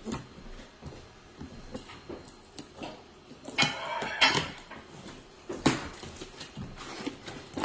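Plastic toy vehicles and their packaging being handled: scattered clicks, knocks and rustles, the loudest a little past halfway.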